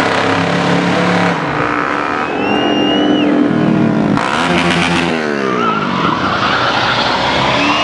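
Engines of cruising cars and motorcycles passing along the street, one engine's pitch falling as it goes by about halfway through. A high whistle sounds twice over the traffic noise.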